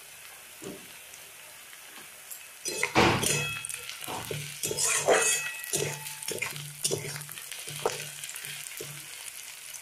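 Fried onions and green chillies sizzling in oil in a karai, with a low hiss at first; from about three seconds in a spatula stirs the mix, scraping and clicking against the pan in quick repeated strokes.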